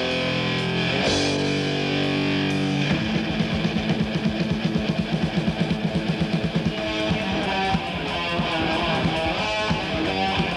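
Heavy metal song with distorted electric guitars: held chords at first, then a fast, evenly pulsing chugging rhythm from about three seconds in.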